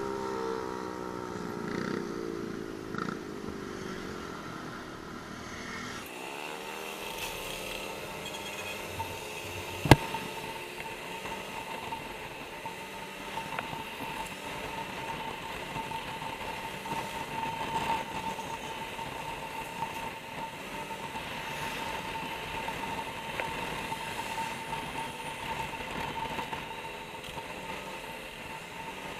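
Motorcycle engine running on the move. The revs drop over the first few seconds; after a cut they climb again and settle into a steady hum with a constant whine. There is one sharp knock about ten seconds in.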